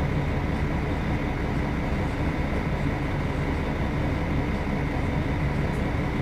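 Mercedes-Benz O500UDA articulated bus's diesel engine running steadily, a constant low rumble with no change in pitch.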